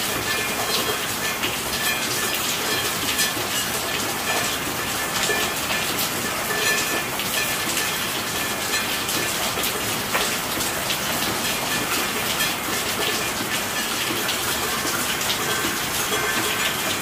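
Steady rain falling: an even hiss dense with small drop ticks, holding level throughout, with faint steady high tones beneath it.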